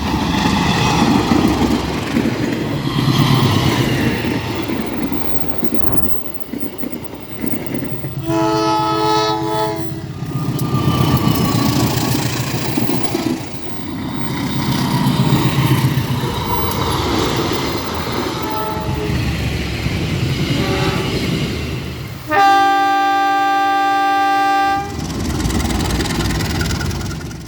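Diesel-electric locomotives running past under load, a low rumbling engine sound throughout. A horn sounds a chord of several tones twice: a blast of under two seconds about eight seconds in, and a longer, louder one about twenty-two seconds in.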